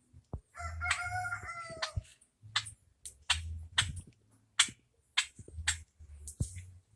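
A bird's single drawn-out call, starting about half a second in and lasting just over a second, dropping slightly in pitch at the end. Sharp clicks and taps repeat throughout.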